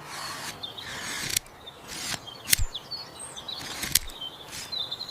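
Small birds chirping in short, high twittering calls, with three sharp clicks spaced about a second apart.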